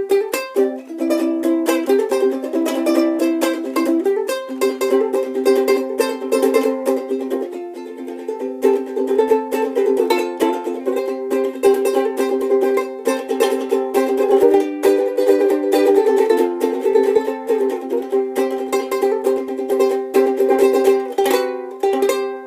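Solo ukulele playing a quick instrumental outro, fast picked notes over chords, ending on a final chord that rings and fades near the end.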